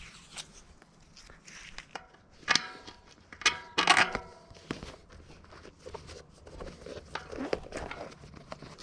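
Handling of bicycle parts and tools: scattered clicks and rustling with a few short metallic clinks that ring briefly, the loudest about two and a half and four seconds in.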